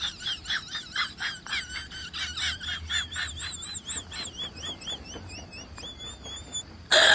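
A bird chirping rapidly and repeatedly: short, high, wavering chirps, several a second, growing sparser later on. A sudden loud burst of noise comes at the very end.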